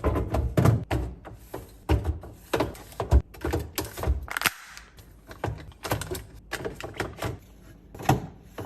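Quick, irregular clicks, taps and knocks of containers and bottles being handled and set down on shelves during a fridge restock, with a brief rustle or hiss about four seconds in.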